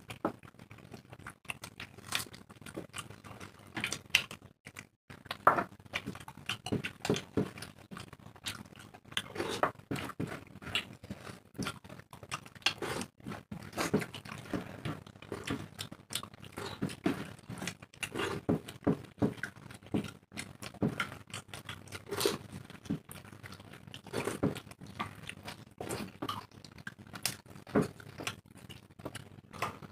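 Two people eating roti and chickpea ghugni by hand: irregular chewing, lip smacks and crunches, with roti being torn.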